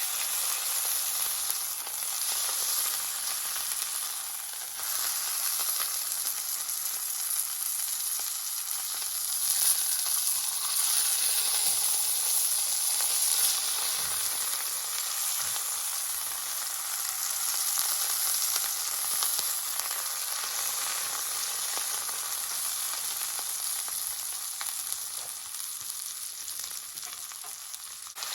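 Food sizzling steadily in a hot cast-iron skillet over a campfire, most likely the roast beef searing. The sizzle swells a little in the middle.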